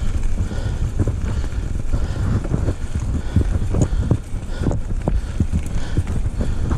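Wind rumbling on the microphone, with irregular dull thuds of a horse's hooves on a dirt trail that come thicker after the first couple of seconds.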